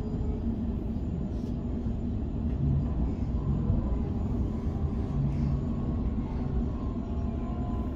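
Steady running rumble of an electric suburban train, heard from inside the carriage while it moves along the line, with faint steady tones above the rumble.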